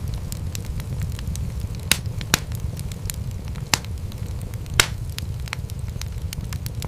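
Wood fire crackling in a fireplace: a steady low rumble of flames under a constant scatter of small clicks, with four louder sharp pops near the middle.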